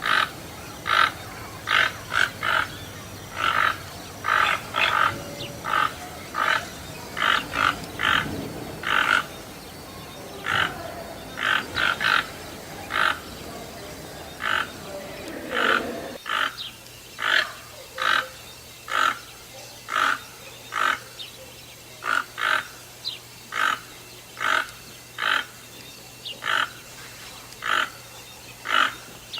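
Toucans calling: short calls repeated over and over, about one or two a second, often in quick pairs.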